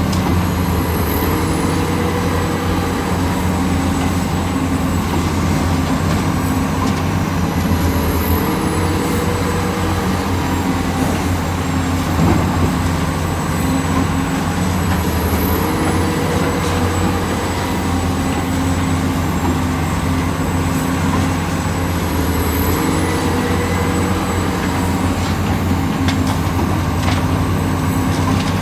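Heavy diesel construction machinery running steadily at an earthmoving site, its engine note stepping up and down every few seconds as the machine works under changing load.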